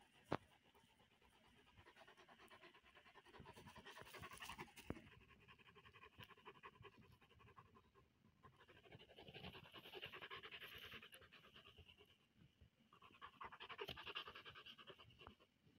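A Pyrenean Mountain Dog panting faintly and rapidly, in several bouts that come and go. A single sharp click sounds just after the start.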